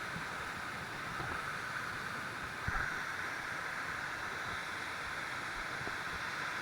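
Steady rushing water of a jungle waterfall, an even hiss-like roar.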